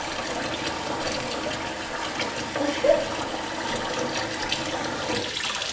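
Tap water running steadily into a sink with a child sitting in it, with a short vocal sound about three seconds in.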